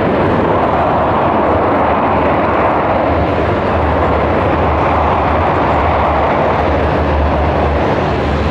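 Military aircraft engines running loudly and steadily, a dense continuous engine noise with a low hum underneath.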